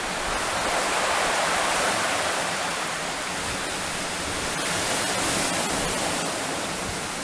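A steady rushing noise, like running water.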